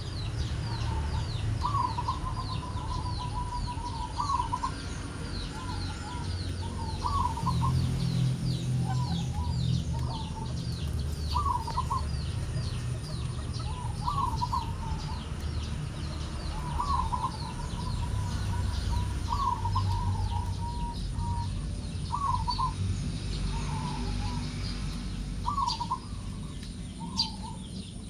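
Zebra doves (perkutut) cooing over and over, each call a short burst of trilled coos, sometimes run together by a rolling trill. Behind them is a fast, steady run of thin, high chirps and a low rumble.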